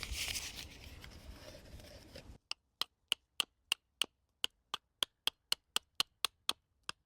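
Axe blade being sharpened: a rasping scrape of stone on steel until about two and a half seconds in. Then a quick, even run of sharp clicks, about three or four a second.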